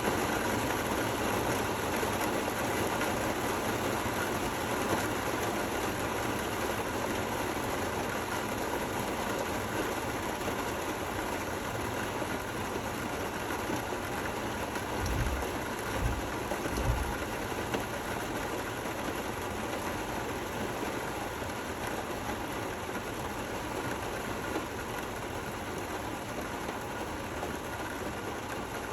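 Steady rain falling, an even hiss with no thunder. A few low thuds come about halfway through.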